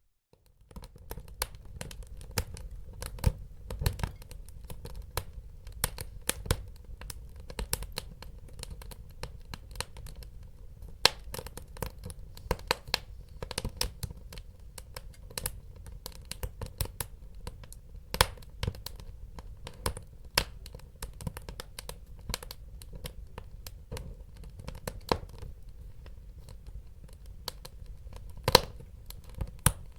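Wood fire burning in a fireplace: dense, irregular crackles and sharp pops over a low rumble of the flames. It cuts in after a brief moment of silence.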